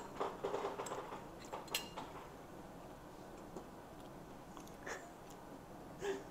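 A person chewing crispy cornstarch-coated fried chicken, with a crackly stretch in the first second and a few light clicks scattered through.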